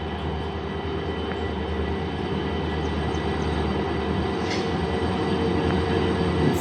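A train approaching, its rumble and steady hum growing gradually louder.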